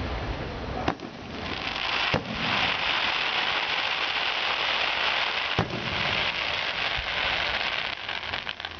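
Aerial fireworks going off: three sharp bangs, with a long crackling hiss of bursting shells between them and a few scattered crackles near the end.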